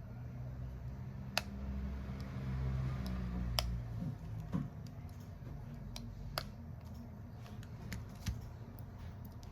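A few sharp, scattered clicks and taps of small hand tools working on a smartphone, over a low steady hum that eases about four seconds in.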